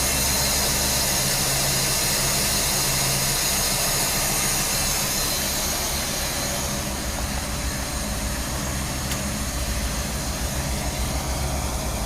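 1976 Dodge W200 pickup's V8 engine idling steadily, just started for the first time after a complete teardown and rebuild. A high hiss over it fades about seven seconds in.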